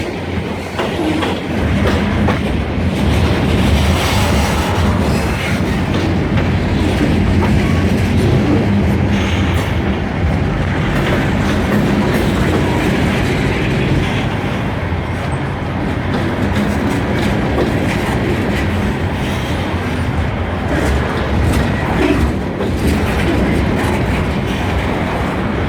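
Freight train rolling past, its wheels clacking over rail joints above a steady low rumble.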